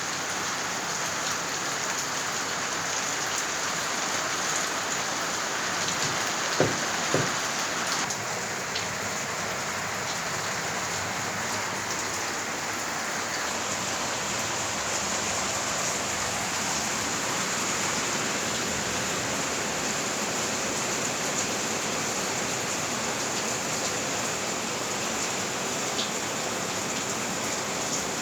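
Steady rain falling and pattering on surfaces. Two short louder knocks come about a quarter of the way in.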